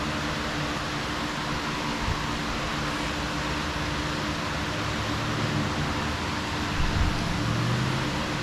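Steady mechanical hiss with a constant low hum, like a running machine or fan, with a few faint low knocks about seven seconds in.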